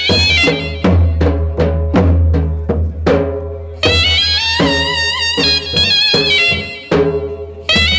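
Gujarati folk music for a Charani raas dance: a wavering, held melody line over regular drum strikes and a steady low bass. The melody drops out for about three seconds near the start, leaving the drum strikes ringing on their own, then comes back.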